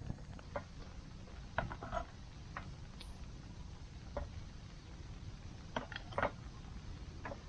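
A few light clicks and knocks of small hard objects being handled, in two short clusters about one and a half and six seconds in, over a low steady rumble.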